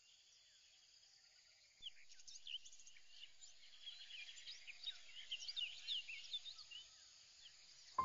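Faint high-pitched chirping of small birds, many quick rising and falling calls, starting about two seconds in after near silence.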